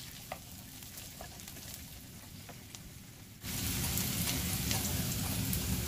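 Garlic, shallots and galangal frying in oil in a pan, sizzling. The sizzle is faint with a few light clicks at first, then jumps abruptly louder about three and a half seconds in.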